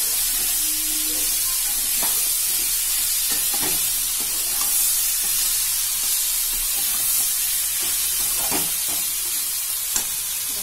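Chicken pieces with onion and tomato sizzling in oil in a non-stick kadai as they are stir-fried on medium flame, with the steady hiss of frying. A flat spatula scrapes and knocks against the pan now and then, with one sharper knock near the end.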